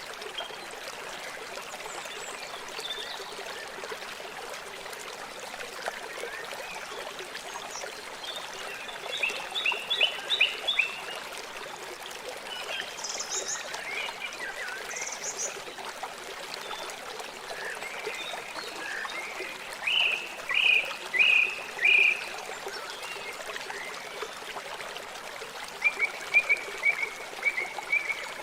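River water flowing steadily with a continuous rushing sound. Short runs of high chirping calls break in over it three times, each a quick string of notes louder than the water.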